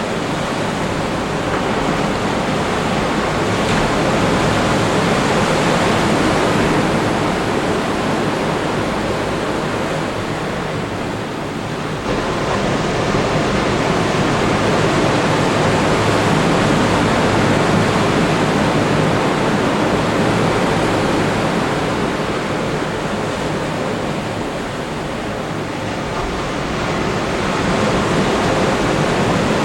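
Ocean surf breaking on a beach: a steady rush of waves that swells and eases, dipping about a third of the way in and again near the end.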